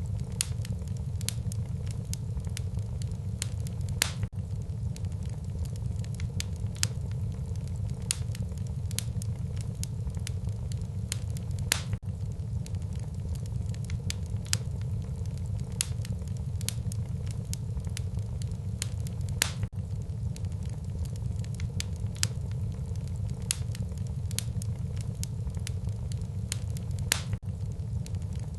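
Wood fire burning in a fireplace, crackling and popping with many sharp snaps over a steady low rumble of the flames.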